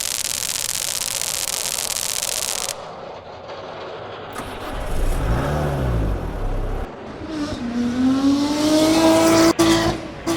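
A car engine revving, its pitch rising and then holding, heard after a few seconds of loud hiss and a low rumble that swells and fades; the sound cuts off sharply near the end.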